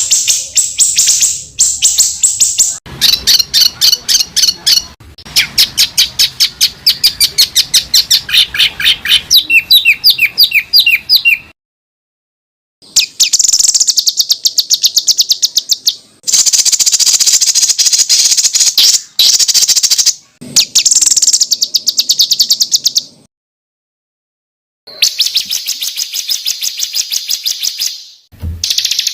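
Songbird masteran recording of rapid 'tembakan' song: fast runs of sharp repeated high notes in a string of bursts. The bursts break off abruptly into dead silence twice, about twelve and twenty-four seconds in, before the song resumes.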